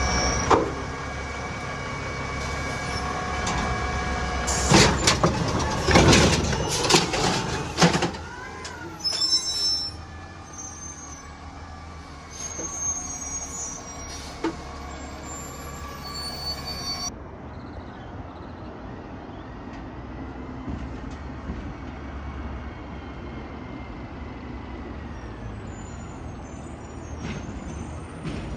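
Garbage truck running, with loud bursts of air hiss and clatter between about four and eight seconds in, then a quieter steady engine rumble.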